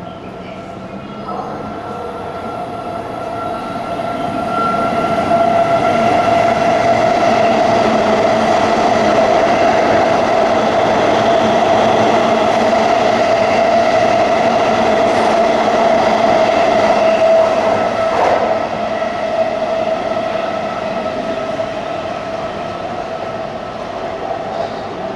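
JR 185 series electric train approaching on the Chuo Line, its running noise swelling over the first several seconds, holding steady with a sustained high-pitched tone, then easing off. A single sharp knock comes about three-quarters of the way through.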